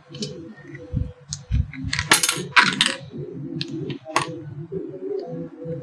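Metal parts of an electric iron clinking and knocking as they are handled during reassembly, with a few sharp, bright clinks about two, two and a half and four seconds in, over a faint steady hum.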